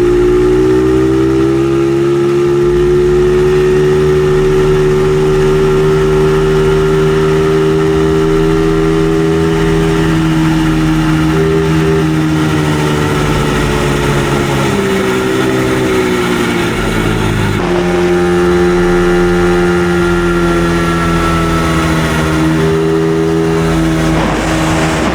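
Small dirt bike engine running hard in fourth, its top gear, at a near-constant high pitch. The pitch climbs slightly at the start and wavers briefly about two-thirds of the way through before settling again.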